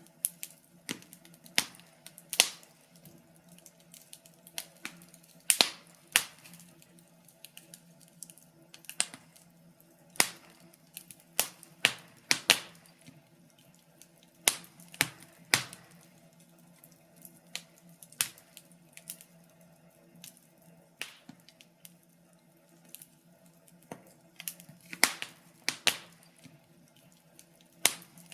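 Wood fire crackling in a fireplace: irregular sharp pops and snaps, some loud and many small, coming every second or so over a faint steady hum.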